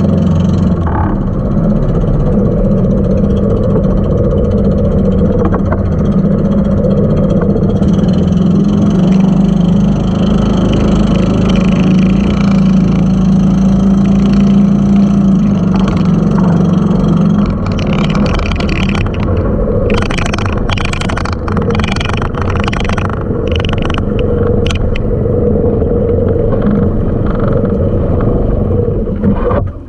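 Engine of a motorized outrigger boat running steadily under way, with water rushing along the hull. A little past halfway, repeated bursts of splashing spray come in over the engine.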